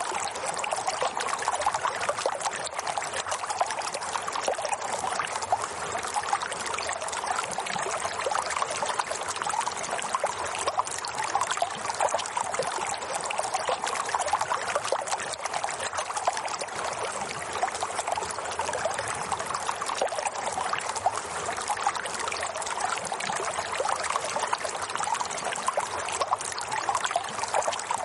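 Running water, a steady trickling and splashing flow with no pauses.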